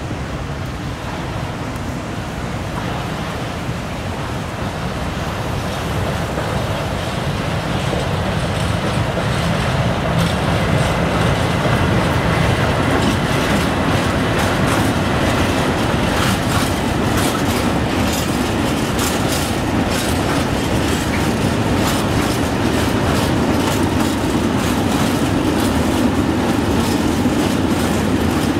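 Freight train of grain silo wagons, hauled by an ÖBB electric locomotive, rolling past and growing louder as it nears. From about eight seconds in the wagon wheels clatter over the rail joints and points in a rapid run of clicks.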